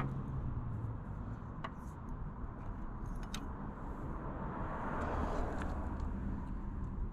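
A few light, sharp metallic clicks and taps from hand-working the motorcycle's clutch lever and cable parts, over a steady low rumble.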